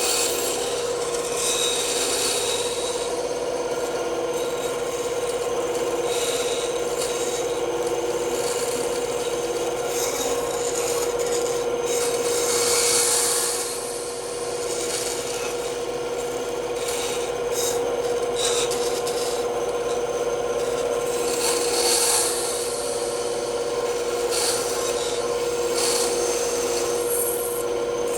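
Bandsaw running with a steady hum while its blade cuts through wood, the rasping cutting noise swelling and easing as the piece is fed and turned.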